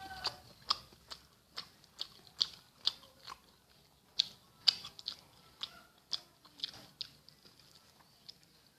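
Close-miked chewing and mouth smacks of a person eating rice with green chili sambal and omelette: sharp wet clicks about two a second, thinning out after about seven seconds.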